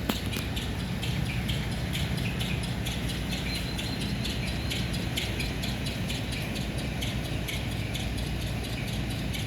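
Many short, rapid high chirps, such as small birds make, over a steady low mechanical hum.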